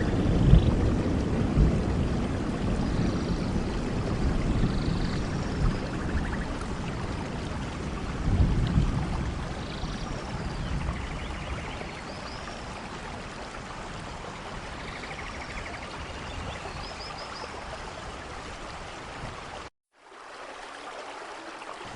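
Steady rainfall in a rainforest, with low rolling thunder that fades over the first half and faint high chirps above the rain. The sound cuts out completely for a moment near the end, then the rain resumes more quietly.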